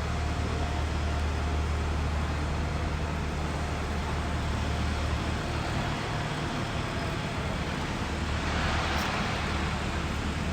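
Steady low mechanical drone, like an engine running, under a wash of background noise; a brief rush of hiss rises near the end.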